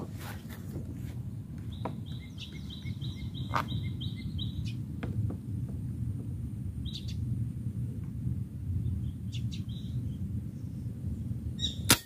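A small bird chirping, a quick run of about eight high notes followed later by a few single chirps, over a steady low outdoor rumble. A sharp click sounds right at the end.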